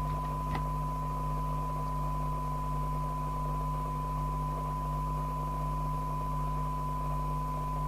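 Rotel RVC240 FM CB radio receiving a weak signal-generator test signal, its speaker giving a steady 1 kHz test tone over receiver hiss, with a low hum beneath. The signal is set near the receiver's sensitivity threshold, at about 12 dB SINAD.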